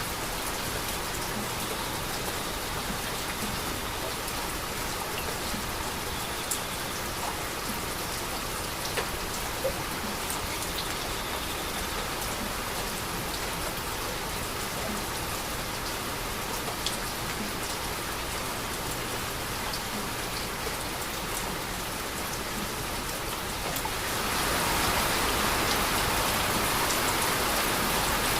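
Heavy rain falling steadily, with scattered single drops ticking out of the patter. It grows louder and heavier near the end.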